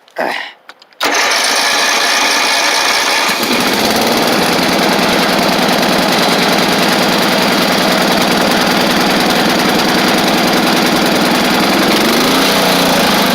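Early-to-mid-1980s Simplicity lawn tractor engine cranked on its starter with the choke on, catching after a couple of seconds and running steadily in a cold start. Near the end its speed rises and sags as it falters.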